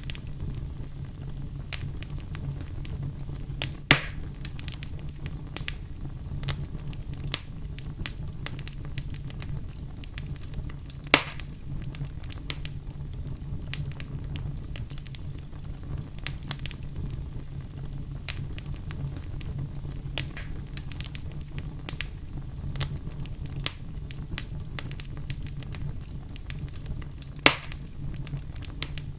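Wood campfire burning, with steady crackling over a low rumble and three loud sharp pops from the burning wood.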